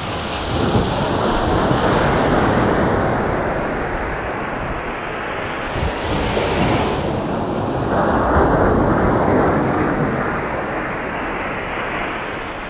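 Waves breaking and washing up the shore, swelling twice and easing off between, with wind on the microphone.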